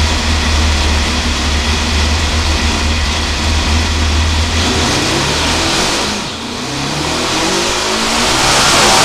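S&S Cycle Pro Stock Motorcycle V-twin engine running on an engine dynamometer. It holds a steady idle for the first half, then is revved up and down, with a brief drop in engine speed past the middle and rising revs near the end.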